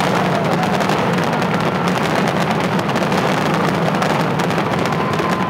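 Aerial fireworks shells bursting in a rapid, continuous barrage: many overlapping bangs and crackles with no gaps between them.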